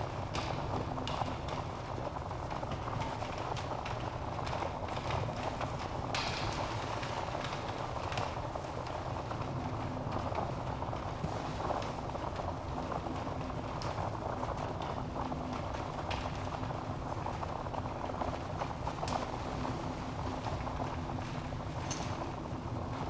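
Wood fire burning in a fireplace: a steady low rustle of flames with irregular crackles and small pops from the logs.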